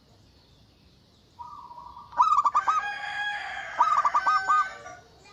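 Local perkutut (zebra dove) cooing: a drawn-out opening note, then two quick runs of short, clipped coos. From about two seconds in, a longer, harsher bird call sounds over it, and the whole phrase stops about five seconds in.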